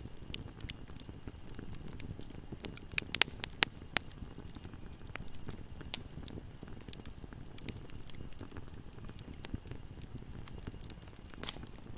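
Bonfire crackling: a steady low rumble of burning wood with scattered sharp pops, a quick cluster of louder pops about three to four seconds in.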